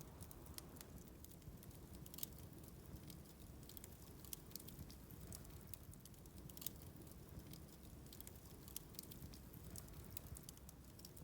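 Bonfire crackling as it burns paper and wood: faint, irregular sharp pops and snaps.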